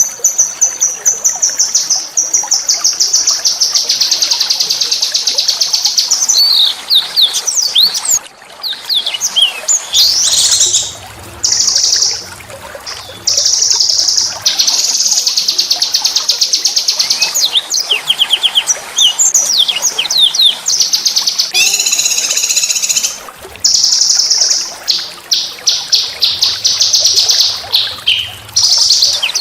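A small songbird singing loud, high-pitched song: long, rapid rattling trills lasting several seconds each, mixed with quick rising and falling whistled notes, with a few brief pauses.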